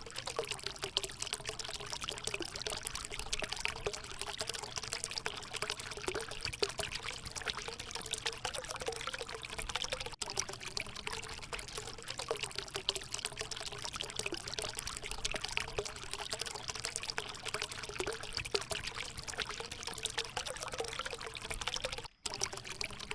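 Water trickling and splashing steadily from a small homemade waterfall fountain, with a momentary break near the end.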